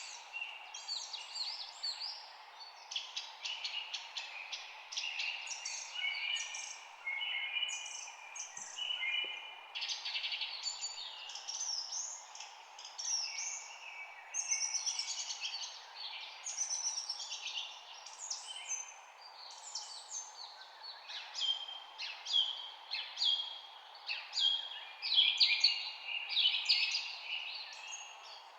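Several birds chirping and singing at once, a continuous stream of short overlapping chirps and trills, over a steady background hiss.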